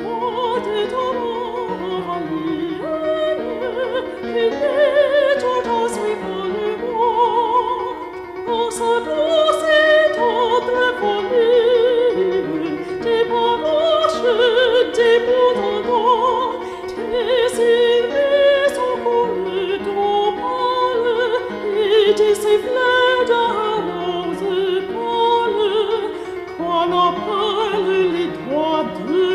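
Opera music: a singer with strong vibrato over classical accompaniment.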